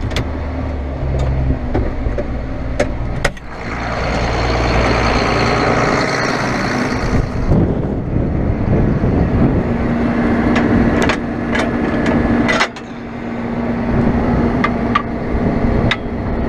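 A vehicle engine running, with scattered sharp clicks and knocks. The engine's sound shifts partway through, and two brief drops in level come at about a third of the way in and near three-quarters.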